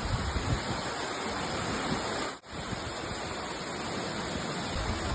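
Steady rushing roar of a waterfall heard close up, with low rumbles of wind on the microphone. The sound drops out for an instant about two and a half seconds in.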